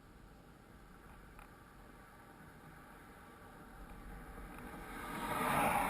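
A road vehicle passing: low background noise, then a swell of engine and tyre noise that builds over the last two seconds.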